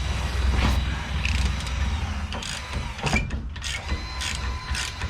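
Hand tools working on a truck's rear brake caliper: a string of irregular metallic clicks and clanks, about nine in five seconds, over a steady low rumble.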